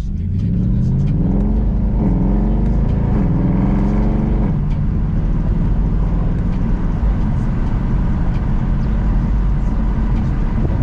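Mercedes C63 AMG's 6.2-litre V8 pulling hard from inside the cabin. The revs rise, drop at an upshift about two seconds in, rise again and drop at a second upshift a couple of seconds later. After that it settles into a steady cruising drone.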